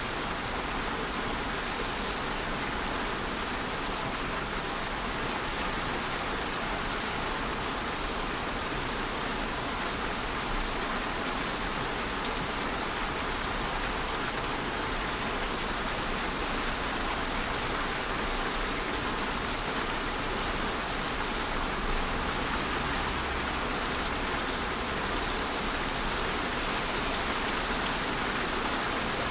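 Steady rainfall, an even hiss of rain with faint individual drops pattering on a surface.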